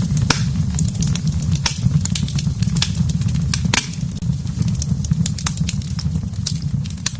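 Wood fire burning in a fireplace: a steady low rumble under frequent, irregular sharp crackles and pops.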